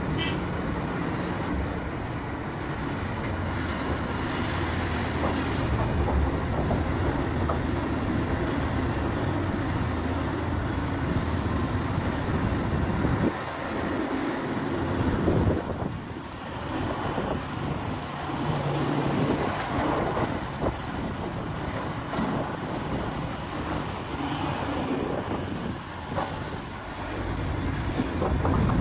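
Large mining excavators at work: heavy diesel engines running under load with hydraulic strain and irregular clanks of bucket and rock. The engine note rises and falls as they dig and swing.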